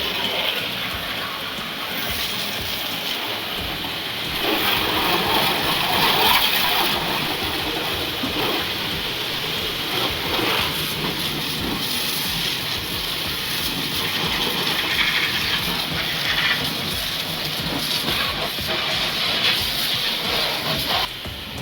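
High-pressure washer spraying water onto a car, a steady loud hiss of jet and splatter that rises and falls a little as the spray moves over the body.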